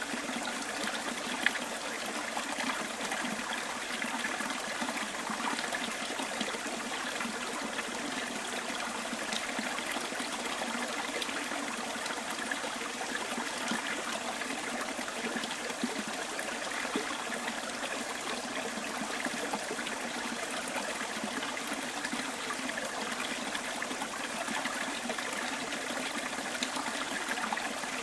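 Small bush stream trickling steadily, with one brief sharp click about a second and a half in.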